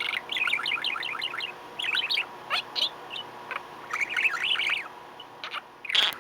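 Pet budgerigar chattering: quick runs of short, high chirps in several bursts, with a sharper louder call near the end.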